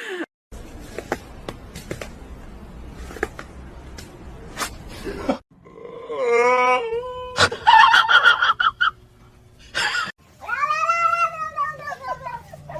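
Domestic cat meowing and yowling: a few short calls about six to nine seconds in, then one long drawn-out yowl near the end that rises and falls. Scattered clicks and knocks come before the calls.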